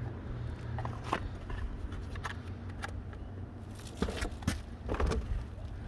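Scattered light clicks and knocks from handling parts and tools, more of them near the end, over a steady low rumble.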